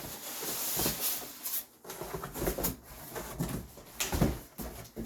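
Cardboard boxes and styrofoam packing being handled: irregular rubbing, scraping and knocks, with a louder thump about four seconds in.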